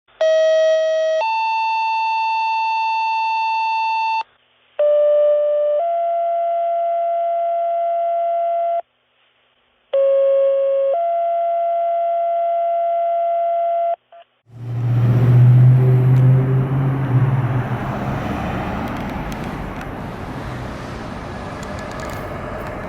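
Three synthesized electronic tone phrases, each a short note stepping into a longer held note, with short gaps between them. About fourteen seconds in, these are cut off by a loud, rumbling heavy-vehicle engine and road noise that eases off slightly.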